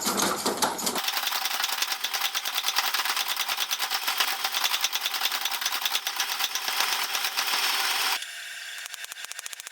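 Mechanical power hammer forging wrought iron: a fast, even run of strikes, many per second. The sound changes abruptly about a second in and again near the end.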